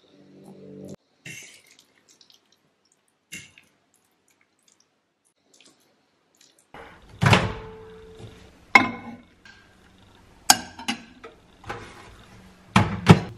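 Household clean-up clatter: a few faint clicks, then from about seven seconds in a series of sharp knocks and clinks, like dishes, pots and kitchen items being handled and set down.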